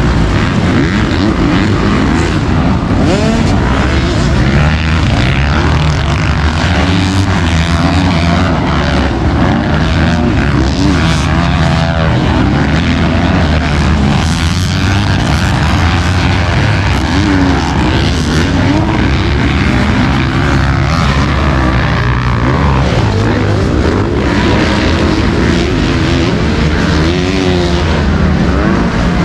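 Several 450cc motocross bikes' engines running hard at once, their pitch rising and falling as the riders work the throttles.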